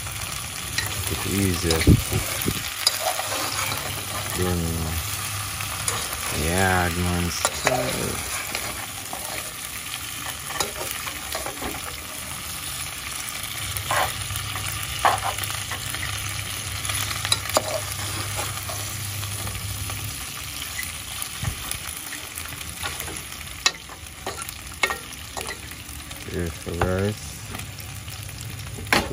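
Seasoned chicken feet sizzling as they brown in oil in a pot, stirred and turned with a metal slotted spatula that clicks and scrapes against the pot now and then.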